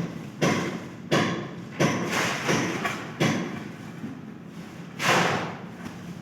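A series of dull thuds, four sharp knocks in the first three or so seconds, each dying away quickly, then a longer rushing scrape about five seconds in.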